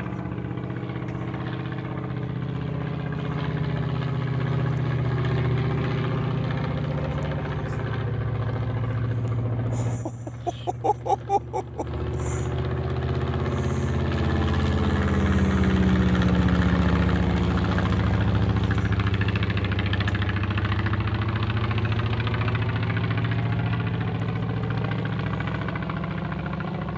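Piston-engined propeller airplane running, its engine note sliding in pitch as it passes near the middle. About ten seconds in, the steady drone briefly gives way to a fast pulsing beat, about four a second, for roughly two seconds.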